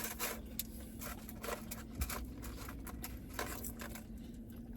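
Food packaging being handled while eating: scattered short rustles and clicks over a steady low electrical hum.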